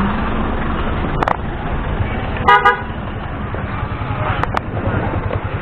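A vehicle horn gives one short toot about two and a half seconds in, over steady wind and road noise from riding. There are a couple of sharp clicks, one before and one after the toot.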